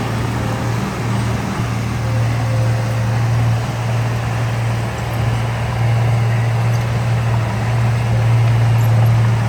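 Diesel engine of heavy earthmoving machinery running steadily with a low drone, swelling slightly a couple of times as it works.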